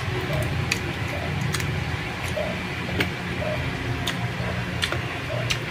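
Close-up chewing of roasted chicken: wet mouth clicks and lip smacks, irregularly spaced about every half second to a second, over a steady low hum.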